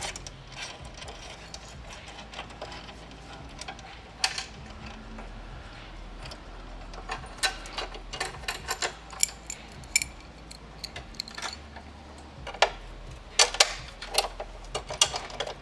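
Scattered metallic clicks and clinks of bolts, washers and hand tools while intercooler mounting brackets are fitted, with small clusters of quick clicks about halfway through and again near the end.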